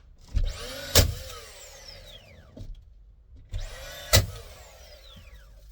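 Cordless DeWalt nail gun fired twice, about three seconds apart. Each shot is a thump and a sharp crack, followed by a whine falling in pitch as the tool's motor winds down.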